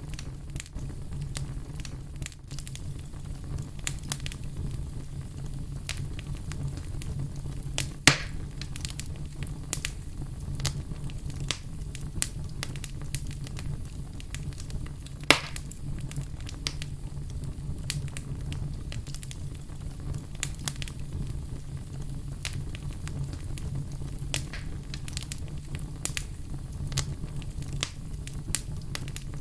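A fire crackling, with many small snaps over a low steady rumble and two louder sharp pops, about eight seconds in and again about fifteen seconds in.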